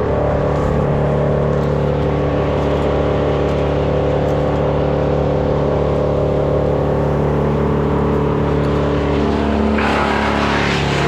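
Engine running at a steady pitch, turning rougher and noisier near the end.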